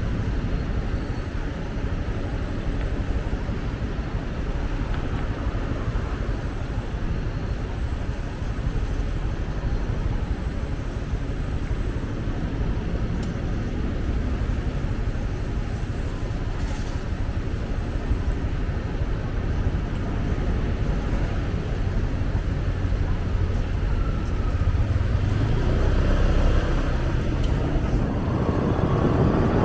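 Road noise from a moving motorcycle: engine, tyres and surrounding traffic blend with wind on the microphone in a steady rush. It grows louder over the last few seconds.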